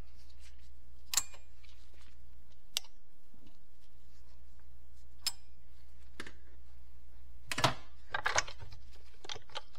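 Scattered sharp metal clicks and taps of hand tools and small parts on the transmission case, with a quick run of light ticks near the end, over a steady low hum.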